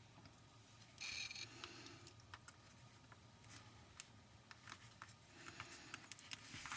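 Faint handling of paper and cardstock: a brief rustle about a second in, then scattered small taps and clicks.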